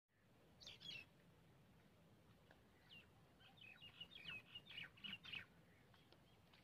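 Small birds chirping faintly in short, high notes: a quick cluster a little under a second in, then a busier run of chirps from about three and a half to five and a half seconds.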